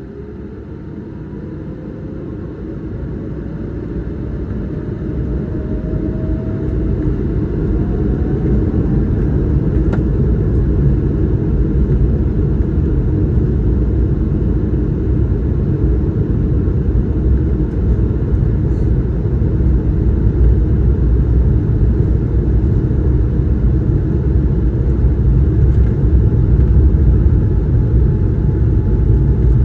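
Airbus A220-300's Pratt & Whitney PW1500G geared turbofans spooling up for takeoff, heard from inside the cabin: a rising whine over the first several seconds as the sound grows louder, then a loud steady rumble of the takeoff roll.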